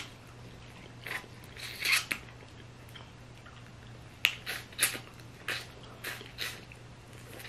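Close-up eating sounds from a seafood boil eaten with the fingers: chewing and wet mouth smacks, short and scattered about once a second, the loudest about two seconds in.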